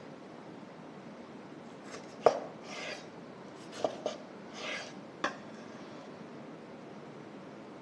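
Kitchenware knocking and clinking four times, sharply, the first knock the loudest, with two short scrapes in between, over quiet room tone.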